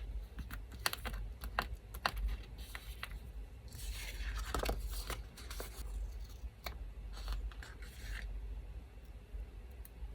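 Paper crafting at a desk: a run of light clicks and taps of paper being handled, then a longer rasp of paper tearing about four seconds in, with a few more short strokes after. A low, steady electric fan hum sits underneath.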